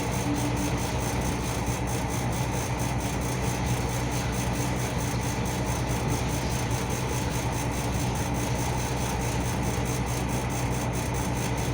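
Car engine idling steadily, a constant low hum with no revving.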